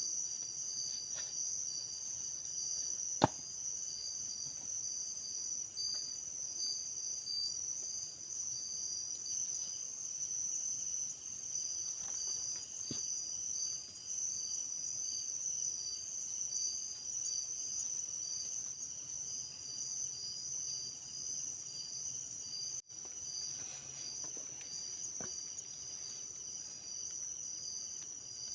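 Forest insects, crickets or similar, keeping up a steady high-pitched chorus of several overlapping tones. A single sharp click or tap comes about three seconds in, and fainter ticks follow later.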